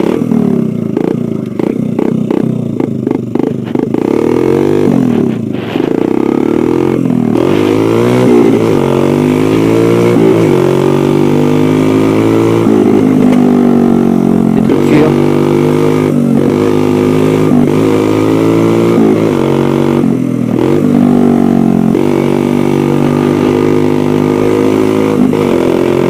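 Dirt bike engine under way, its pitch repeatedly rising and falling back as the throttle is worked and gears change. It is choppier and quieter for the first few seconds, then steadier and louder.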